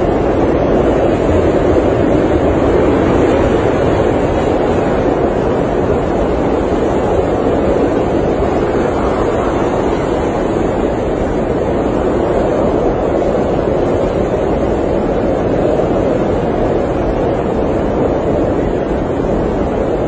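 Blizzard wind blowing steadily, an even rushing noise with no distinct gusts or events.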